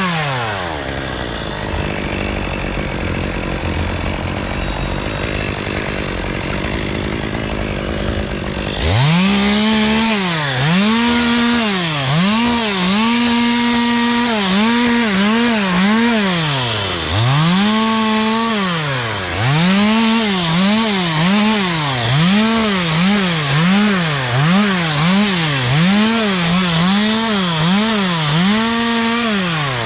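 Chainsaw running at low speed for about the first nine seconds, then revved again and again, its pitch climbing and dropping with each squeeze of the throttle in short bursts.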